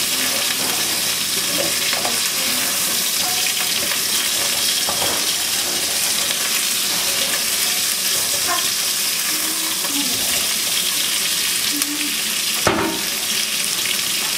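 Chicken wings sizzling steadily as they fry in a pan, with one sharp knock, a utensil against the pan, near the end.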